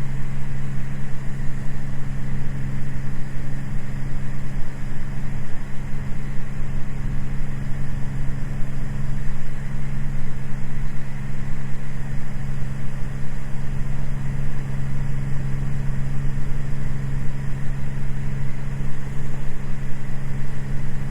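Cessna 206 Stationair's six-cylinder piston engine and propeller running steadily at climb power just after takeoff, heard from inside the cabin as a constant low drone.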